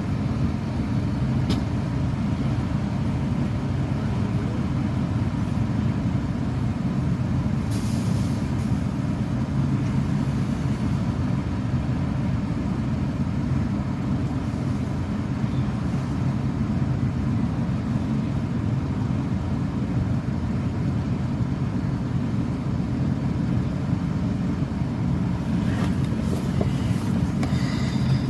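Steady low rumble of motor vehicle noise, with a few brief higher-pitched sounds near the middle and near the end.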